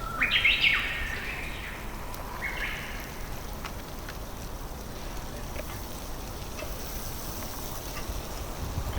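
A bird calls twice, a loud, quick rising call just after the start and a shorter, weaker one about two and a half seconds in, over a steady low outdoor rumble.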